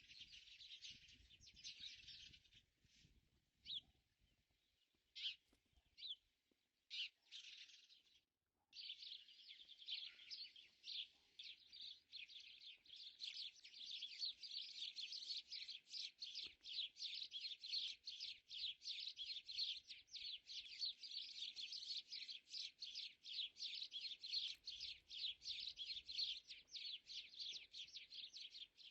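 Small birds chirping: scattered calls with pauses at first, then from about nine seconds in a fast, steady series of chirps, about three a second.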